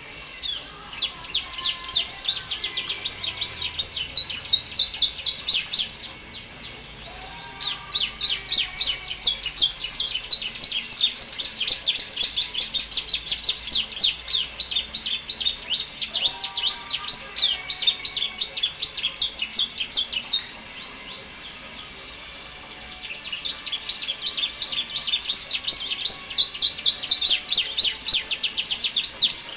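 Domestic canary singing: three long bouts of fast, rapid-fire trills, with short pauses about six seconds in and again about twenty seconds in.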